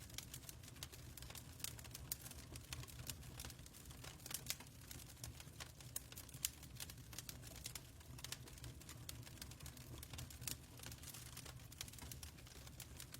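Fireplace fire crackling, with irregular sharp pops and snaps over a low steady rumble.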